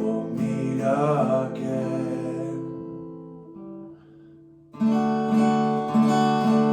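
Acoustic guitar being strummed: a chord rings and slowly fades away over about four seconds. After a short near-silent gap, steady rhythmic strumming starts again near the end.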